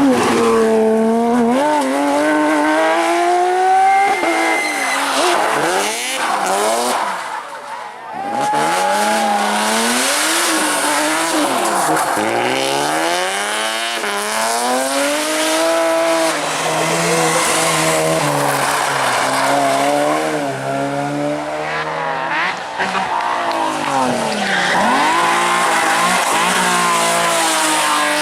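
Rally cars at full speed on a stage, one after another: engines revving hard up and down through the gears, with tyre noise and skidding on the loose surface.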